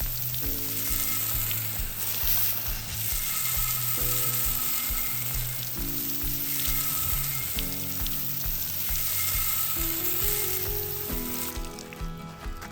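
Steady hiss of water spraying onto a concrete bird bath, rinsing off the dilute bleach solution. It stops about a second before the end, with background music playing throughout.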